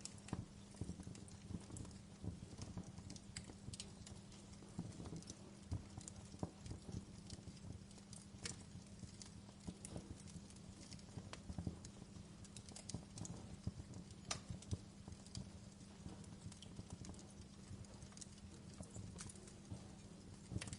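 Wood log fire crackling in a fireplace: irregular sharp pops and snaps, with a low steady hum underneath.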